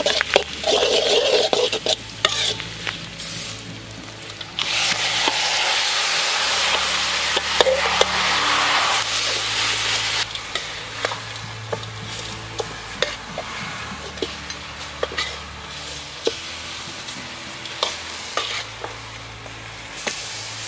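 Spatula stirring and scraping in a wok of hot, sizzling sauce. About four and a half seconds in, a loud burst of sizzling sets in as pig feet go into the pan, dying down near the ten-second mark. After that, lighter sizzling continues with many short clicks of the spatula against the wok as the feet are turned.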